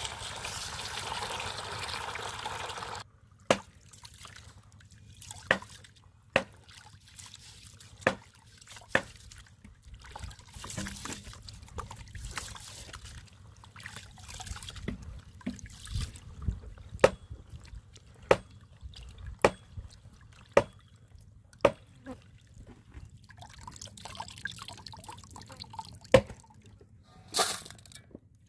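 Water dripping: a hissing rush of water for the first three seconds, then single heavy drops landing irregularly, about one every second or two, each a sharp tick with a short ring.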